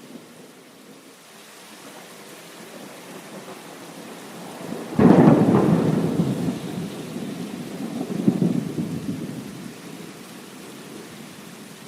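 A thunderclap breaks about five seconds in and rolls away over several seconds, with a second rumble swelling and fading soon after. Steady rain runs underneath.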